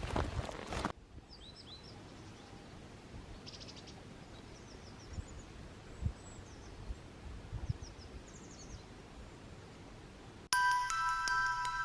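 Small birds chirping in short, high calls scattered over a quiet outdoor background, with a few footsteps in the first second. Near the end, music with bell-like mallet notes begins.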